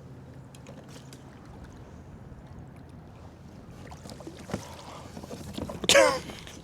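Handling sounds in a kayak while a channel catfish is brought aboard: scattered light clicks and knocks against the hull, then a short loud vocal sound from the angler near the end.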